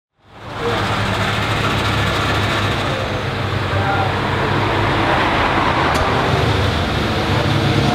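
BMW M4 F82's 3.0-litre twin-turbo inline-six idling steadily. It fades in over the first half second.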